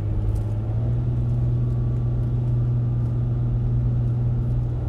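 Car driving, heard from inside the cabin: a steady low drone with road rumble underneath.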